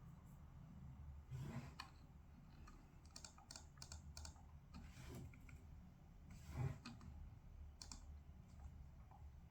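Faint typing on a computer keyboard: a quick run of key clicks in the middle, a few more near the end, and two soft low thumps.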